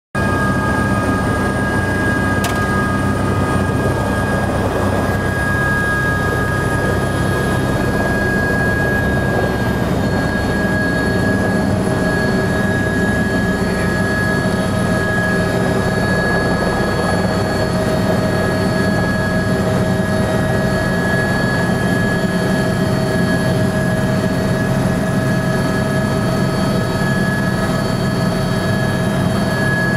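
Helicopter engine and rotors running steadily, heard from inside the cabin, with a steady high turbine whine over a dense roar. A single click about two and a half seconds in.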